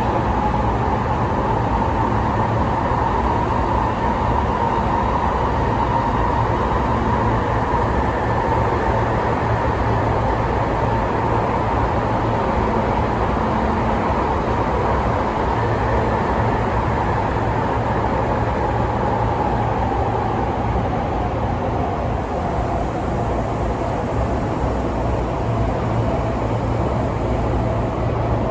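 Sotetsu 12000 series electric train running: a steady low rumble of wheels on rail with a whine that slowly falls in pitch over the second half.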